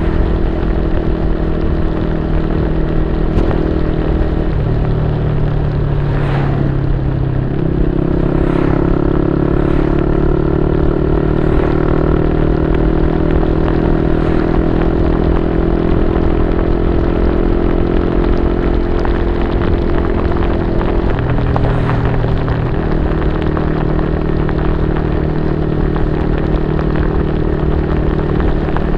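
Yamaha Y15ZR's 150 cc single-cylinder four-stroke engine running through an aftermarket YYPANG SD3 exhaust, held at steady speeds. The engine note steps up and down a few times.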